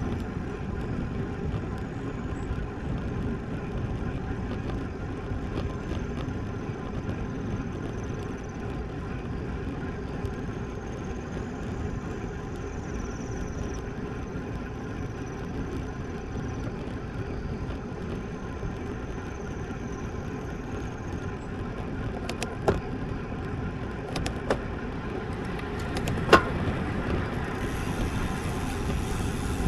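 Steady rushing noise of riding a road bike: wind over the microphone and tyre noise on the road, with a few sharp clicks near the end.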